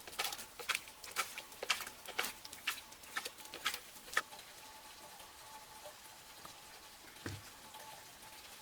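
A run of irregular sharp taps or knocks, about two a second, stopping about four seconds in, then a faint steady hum and one low thump near the end.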